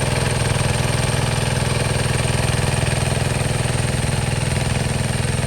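Hinota HG Gold 155 DI tractor's diesel engine running steadily, with a rapid even chugging.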